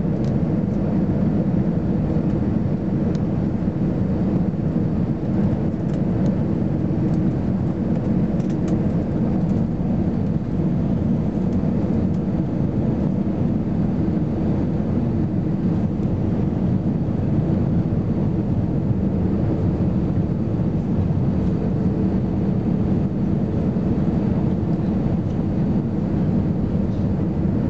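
Steady cabin noise inside an Airbus A320-214 airliner: a constant rumble of its CFM56 jet engines and the airflow past the fuselage.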